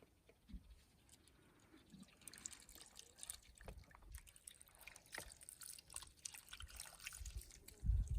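Water trickling and dripping, with small scattered clicks and a few dull thumps near the end.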